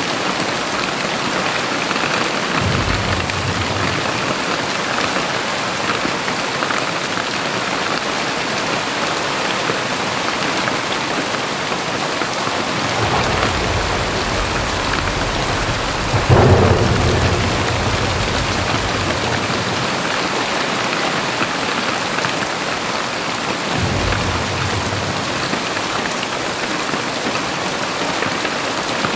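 Very heavy rain pouring steadily, with thunder: low rumbles a few times and a sharp clap about halfway through that rumbles on for a second or two.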